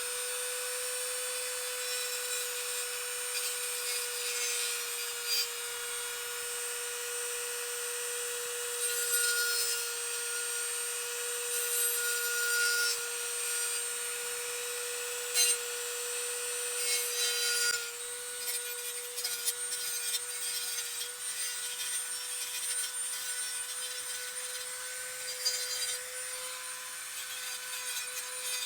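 High-speed rotary tool with a burr running at a steady speed and grinding down casting ridges on a Tillotson engine block, with scratchy scraping that comes and goes in short louder bursts as the bit bites the metal.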